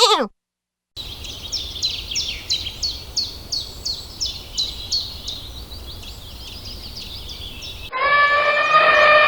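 A bird calling over and over, short high chirps sweeping downward about twice a second, over a steady outdoor background hiss; the calls fade out after about five seconds. About a second before the end, a loud, steady, horn-like pitched call begins.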